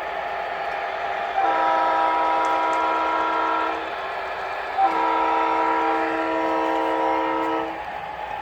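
O scale model locomotive's onboard sound system blowing its horn in two long blasts, each two to three seconds, over a steady running hum.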